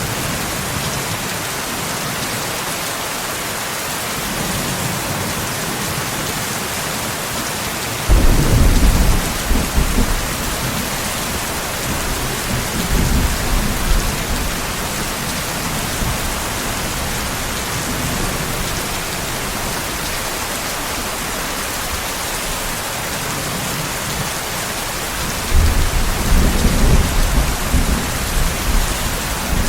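Steady heavy rain, with thunder rumbling twice: once about eight seconds in and again near the end, each rumble lasting a few seconds.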